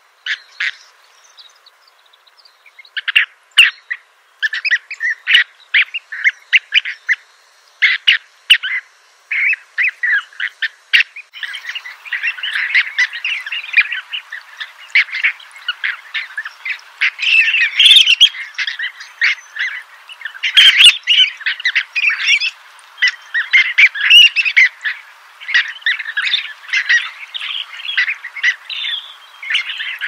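Birds calling with short, sharp chirps, scattered at first, then from about eleven seconds in a dense, continuous chorus of overlapping chirps.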